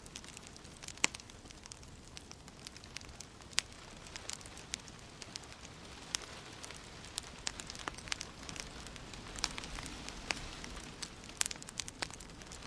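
Wood fire crackling in a fireplace: irregular sharp pops and snaps, several a second, over a steady hiss.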